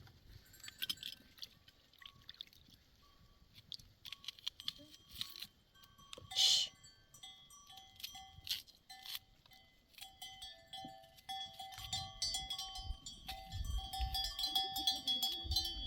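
Bells on a herd of sheep and goats clinking irregularly, mixed with scattered clicks and knocks and a short loud burst about six seconds in. A low rumble builds near the end.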